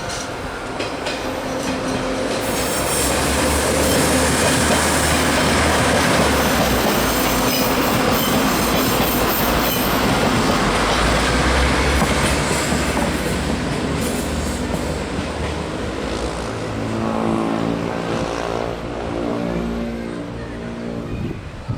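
Jiji Line diesel train running on the rails, a dense rumble of wheel-and-rail noise that swells a couple of seconds in and eases off later. Near the end a low steady pitched drone comes through.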